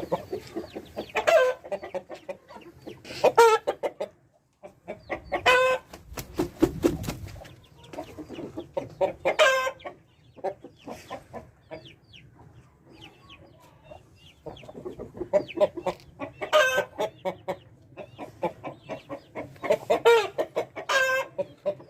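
Aseel chickens clucking, with a loud drawn-out call every few seconds and quick short clucks in between.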